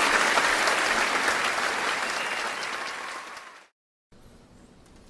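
Audience applauding, fading down and then cut off abruptly about three and a half seconds in, leaving faint room tone.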